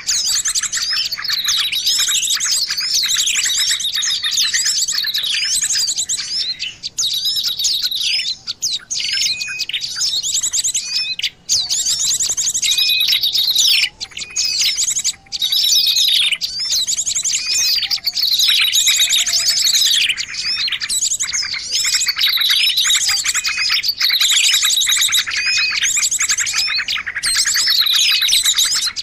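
Small songbirds chirping and twittering in a dense, continuous chorus, with high, quick phrases that fall in pitch and repeat every second or two. This is a lure call played to draw small wild birds in.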